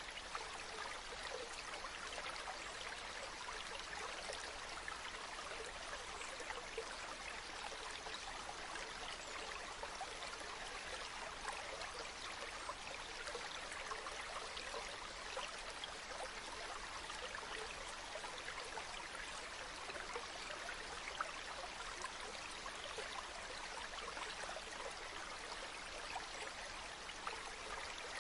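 Water running in a small stream: a steady babble of many tiny splashes, unchanging throughout.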